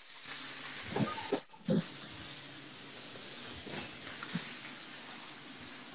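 Steady hiss of food sizzling as it fries on a hot pan, with a brief dropout about a second and a half in.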